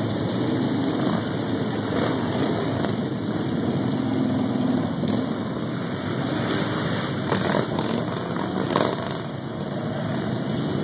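Motorcycle engines running in the background, with a few short knocks about seven to nine seconds in.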